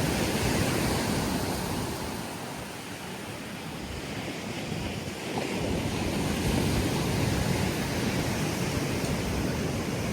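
Surf washing onto a sandy beach, with wind rumbling on the microphone. The wash eases about two seconds in and builds again about five seconds in.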